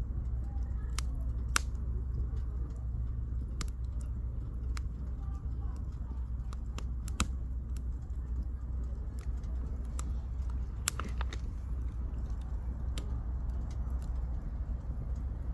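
Firewood burning in a campfire, with sharp crackles and pops at irregular intervals over a steady low rumble.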